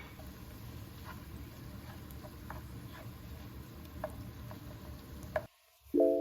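Scattered light clicks and taps of small objects being handled, over faint steady room noise. Near the end the sound drops out briefly and a plucked, ukulele-like music note starts.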